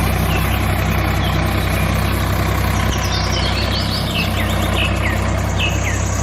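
Engine idling steadily with a low, even hum, while birds chirp in the background.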